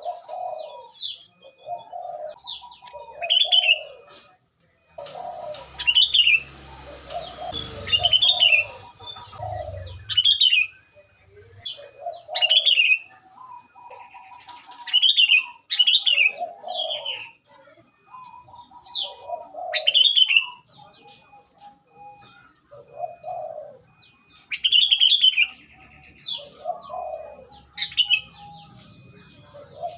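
Sooty-headed bulbul (kutilang) calls played as a trapping lure: short high chirping calls repeated every second or two, alternating with lower notes. A rough rustling noise joins in for a few seconds about five seconds in.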